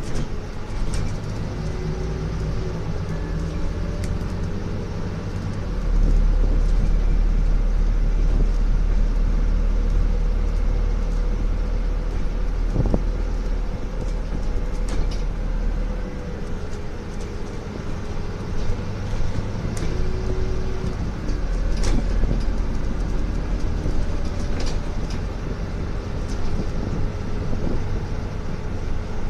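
Scania N250UD double-decker bus heard from inside while on the move: its five-cylinder diesel engine pulls harder about six seconds in and again near the end, easing off in between, with its pitch stepping up and down through gear changes. Occasional sharp rattles and clicks come from the bus body.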